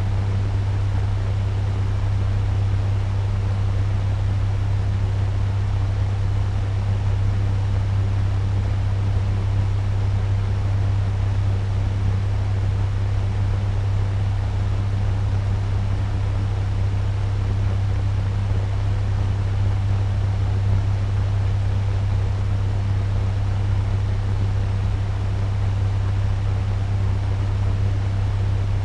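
Turbo fan running steadily at medium speed: an even rush of air over a strong low hum.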